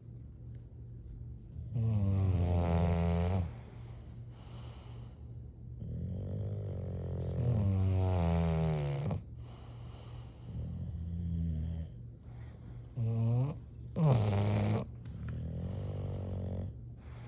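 Bulldog snoring: about five snores, each with a clear droning pitch. Some are short and some are drawn out over two or three seconds, with quieter breathing between them.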